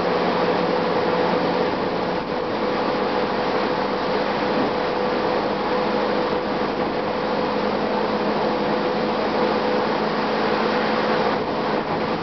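Steady running noise inside a 2007 Gillig Low Floor bus under way: its Cummins ISM diesel engine, air blowers and road noise blending into a constant rush with a steady mid-pitched hum.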